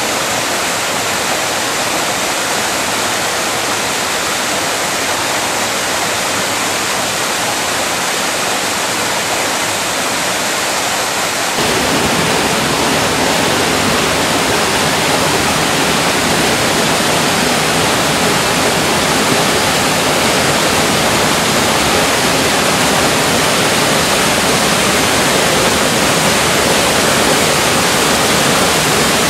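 Waterfall: a steady, loud rush of falling water. About twelve seconds in it steps up in loudness and gains a deeper low rumble.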